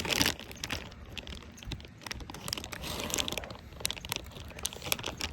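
Close-miked eating of rotisserie chicken: irregular wet chewing and tearing with many small clicks and crinkling noises, a louder burst right at the start and another about three seconds in.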